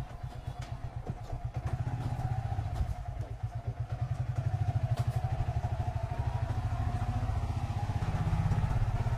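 Motorcycle engine running while riding, heard from on board, its low pulsing note getting louder about four seconds in, with a few sharp clicks.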